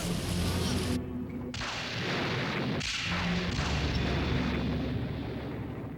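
Loud, deep rumbling booms over a dense wash of noise, breaking off and striking again about a second in and about three seconds in, then fading near the end.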